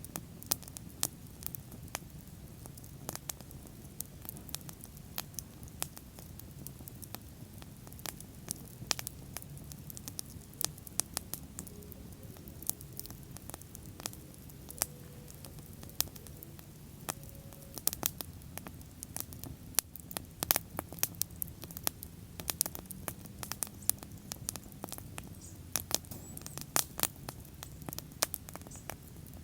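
Wood bonfire crackling: irregular sharp pops and snaps over a low steady rush of flames.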